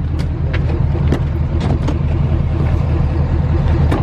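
A motor running steadily with a low hum, with a few sharp clicks or knocks on top.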